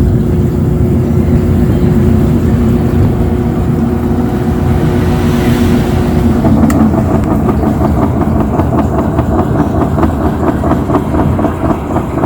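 Washing machine running: a steady motor hum until about halfway through, then a click, after which it turns into a fast, even pulsing.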